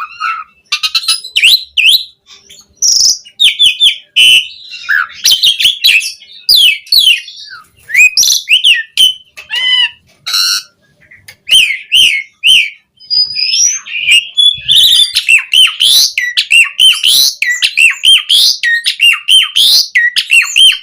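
Asian pied starling (jalak suren) singing a long, varied song: quick runs of whistles, chatters, clicks and harsh notes, with brief pauses about ten and thirteen seconds in.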